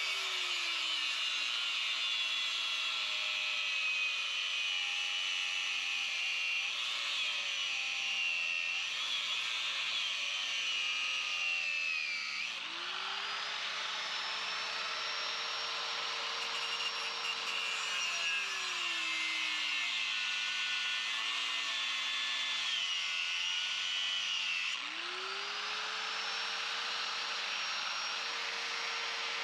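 Electric power tool grinding metal, running under load with a harsh grinding hiss. Its motor pitch sags as the tool is pressed into the work and climbs back when it is eased off: it sags at the start, recovers about halfway through, sags again and recovers near the end.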